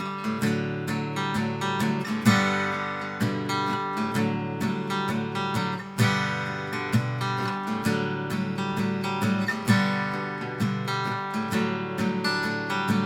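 Acoustic guitar strummed in a steady rhythm with a few stronger accented strums: an instrumental passage between a song's chorus and its next verse.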